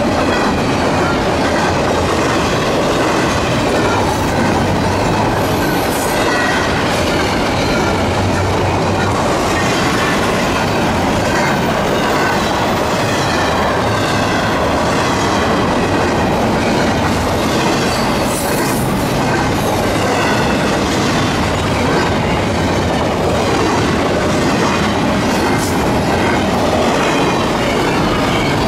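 Train rolling past at trackside: a steady rumble and clatter of wheels over the rails, with a few brief high wheel squeals.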